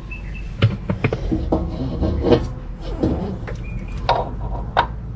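Irregular knocks and clunks, about seven in five seconds, as a front CV axle is worked into the transmission.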